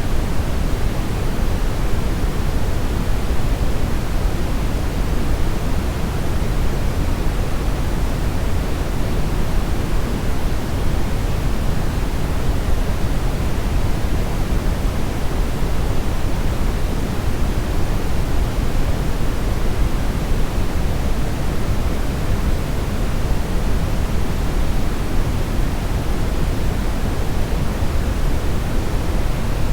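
Steady synthetic brownish noise: an even, unbroken hiss-rumble, heaviest in the low end and falling off toward the top.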